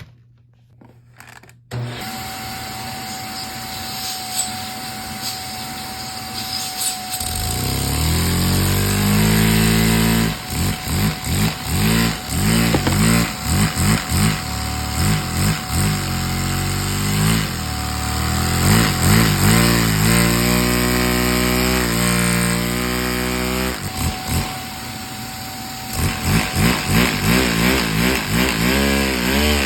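A motorised Lego Technic truck model's motor switches on about two seconds in and runs with a thin steady whine. From about seven seconds it buzzes louder and pulses, its pitch surging up and down as it revs.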